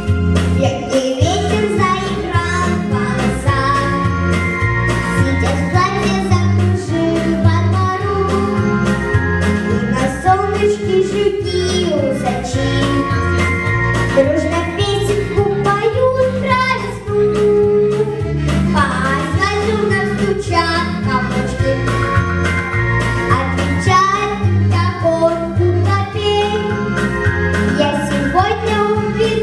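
A child singing a song solo over instrumental backing with a steady bass line and beat.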